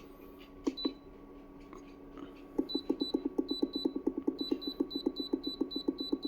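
Electronic control panel of a portable fridge beeping rapidly as its temperature setting is stepped: a couple of single beeps, then from about halfway through a fast, even run of short beeps, about eight a second, over a faint steady hum.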